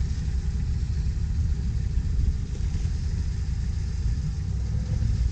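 Jeep Wrangler engine running at low revs, a steady low rumble.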